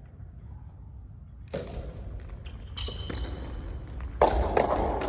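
Soft tennis ball struck by rackets in a rally: a few sharp hits about a second or so apart, the loudest about four seconds in.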